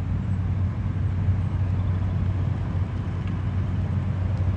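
A vehicle's engine running with a steady low hum.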